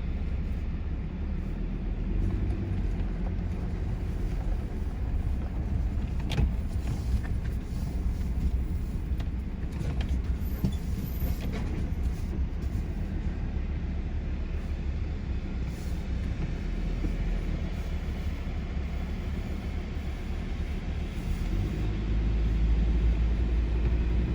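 Ford Ranger PX3 ute driving along, heard from inside the cab as a steady low engine and road rumble, with a couple of light knocks and the rumble growing louder near the end.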